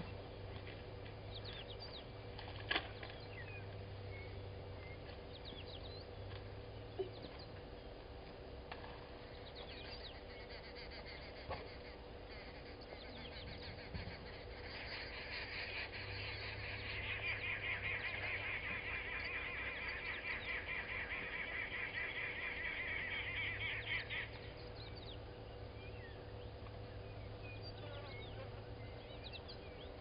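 A bird calling in a rapid, fast-repeating run of notes for about ten seconds, starting about halfway through. Scattered short bird chirps and a faint steady hum run underneath.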